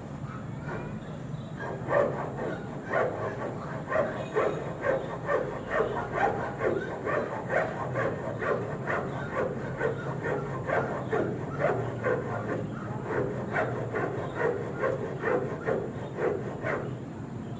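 A dog barking over and over, about two barks a second, starting about two seconds in and stopping shortly before the end.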